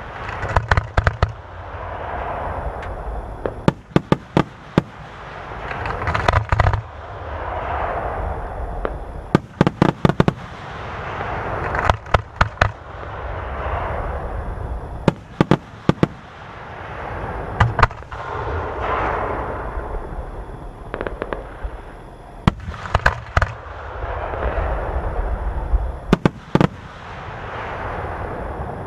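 Aerial fireworks display: repeated sharp bangs of shells bursting, often in quick clusters of two to four, each followed by a rising and fading crackling hiss. A low rumble runs underneath.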